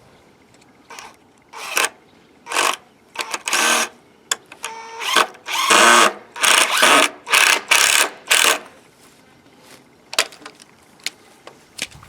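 A power drill driving wood screws into the wooden frame, in a run of short bursts of motor whine starting and stopping about eight times, followed by a few light clicks.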